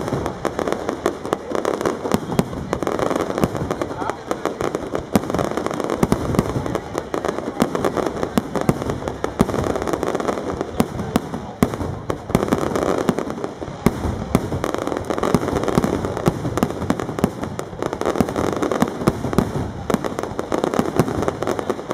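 Fireworks display: aerial shells bursting, with a constant run of sharp bangs and crackling, many close together, that never stops.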